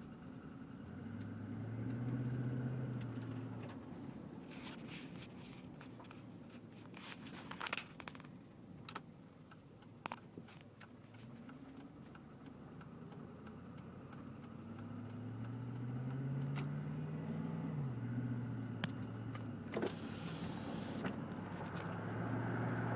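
2007 Chevrolet TrailBlazer SS's 6.0-litre V8 running, revved up and let back down three times, with scattered sharp clicks; the owner is recording it for a ticking noise.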